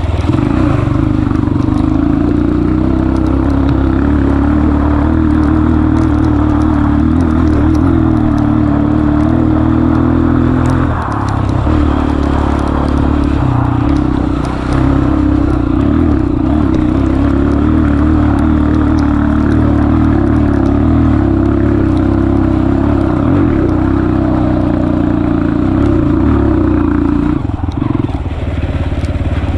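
Honda CRF230F's single-cylinder four-stroke engine running steadily under throttle as the bike is ridden, with a few brief dips where the throttle eases off, and scattered light rattles.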